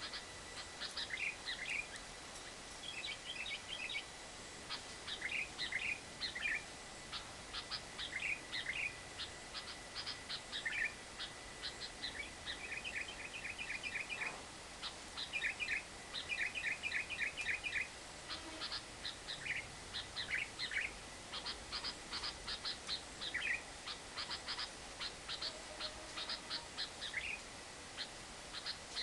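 Lovebird chattering: sharp, high chips in quick runs lasting a second or two, repeated with short pauses, over a steady hiss.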